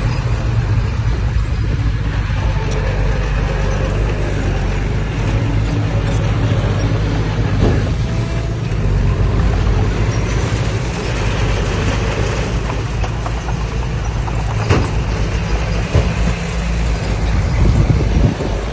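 Heavy diesel earthmoving machinery running steadily under load, with a few sharp metallic knocks.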